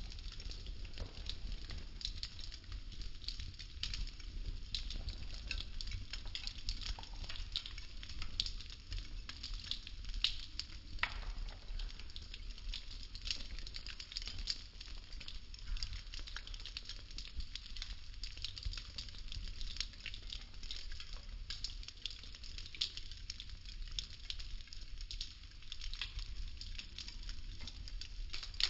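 Burning wooden popsicle sticks crackling steadily, a dense run of small sharp pops and snaps, over a low steady rumble.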